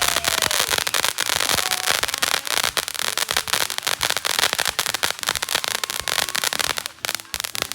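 Fireworks crackling: a dense, rapid run of sharp pops and crackles that thins out near the end.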